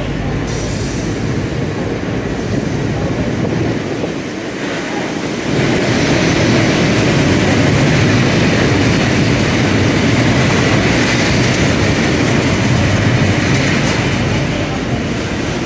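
A train moving through the station, its running noise growing louder about five and a half seconds in and then holding steady, easing slightly near the end.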